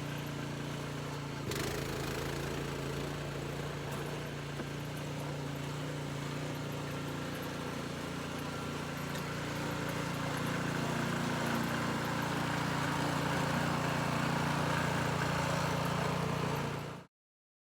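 Troy-Bilt gas snowblower engine running steadily, getting a little louder about ten seconds in, then cutting off suddenly near the end.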